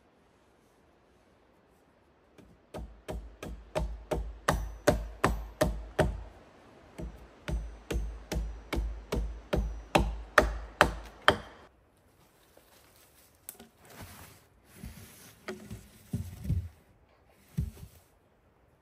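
A tool striking wood in quick, even blows, about three a second, each landing with a dull thud; two runs with a short break between them. Softer scraping and a few light knocks follow near the end.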